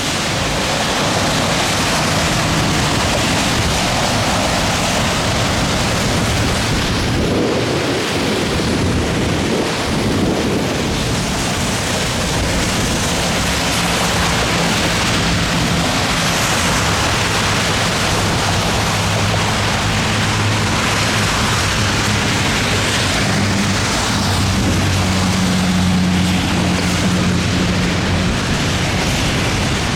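Heavy rain pouring in a severe thunderstorm with gusty wind, a steady loud rush of noise. A low steady hum joins in about halfway through.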